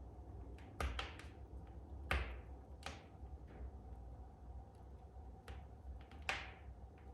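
Wood fire in a fireplace crackling. Scattered small snaps are joined by louder pops about a second in, at two and three seconds, and near the end, over a low steady rumble.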